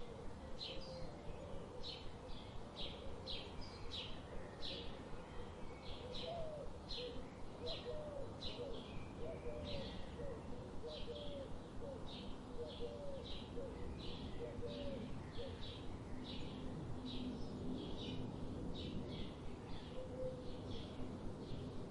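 Birdsong: a bird repeats short, high chirps at about two a second, while a lower, wavering call comes in between about six and ten seconds in.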